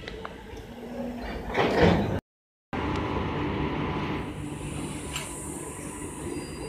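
Train coaches rolling past at a station, the noise swelling to a peak before cutting off abruptly about two seconds in; then a WAP-4 electric locomotive pulling an express train away from the platform with a steady rumble and a high hiss through the middle.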